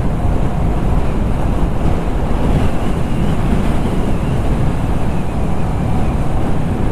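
Steady, loud wind rush buffeting the camera microphone on a motorcycle moving at highway speed. The rumble is heaviest in the low end.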